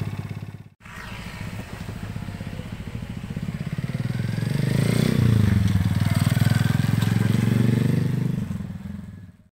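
Skygo ERL 100 scrambler motorcycle's small engine running as the bike is ridden. Its note grows louder and rises then falls around the middle of the stretch, then fades out near the end.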